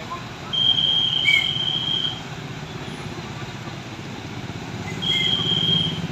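Large truck's diesel engine running at idle with a fast, even pulsing beat, while a high, steady whistle tone sounds twice: about a second and a half long near the start and a shorter one near the end.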